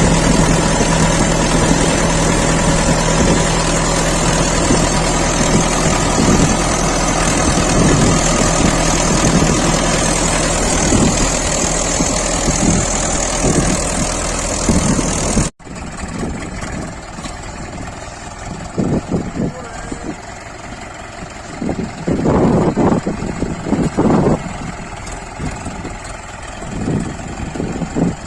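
Tractor diesel engine running loudly and steadily. About halfway through, the sound cuts off abruptly to a quieter engine bed with irregular louder bursts.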